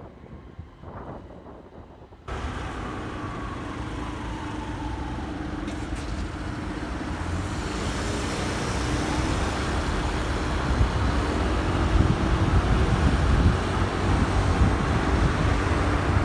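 Motorcycle riding in city traffic: the engine is running under road and wind noise. The sound cuts in abruptly about two seconds in and grows gradually louder as the bike gathers speed.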